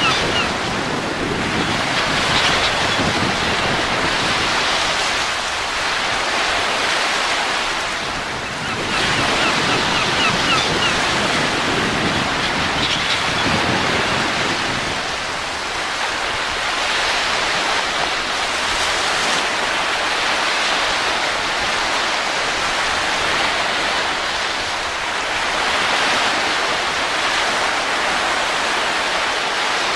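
Wind blowing steadily, swelling and easing in gusts every few seconds.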